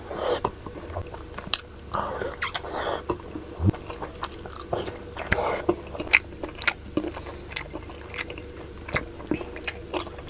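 A person chewing food close to the microphone, with many short, irregular wet mouth clicks and smacks.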